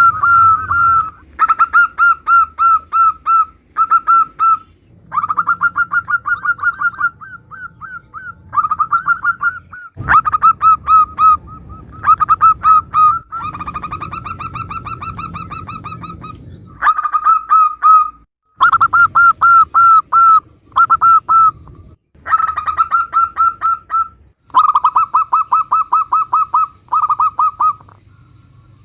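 Zebra doves (perkutut) cooing: runs of quick, rippling coo notes at one steady pitch, in bursts of one to three seconds with short pauses between, over a low background hum.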